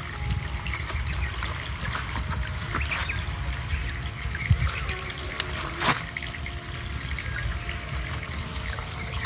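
Water trickling steadily, with a few sharp clicks, the clearest about six seconds in.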